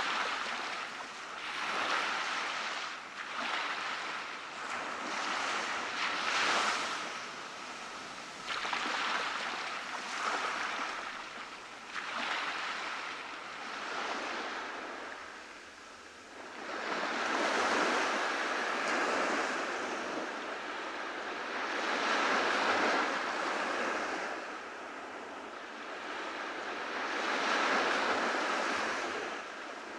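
Ocean surf breaking and washing on a beach, swelling and fading every few seconds, with three larger surges in the second half.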